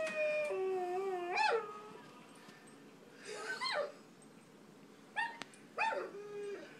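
A dog whining in a series of high whimpers and short howls that glide up and down in pitch, about five cries with pauses between them.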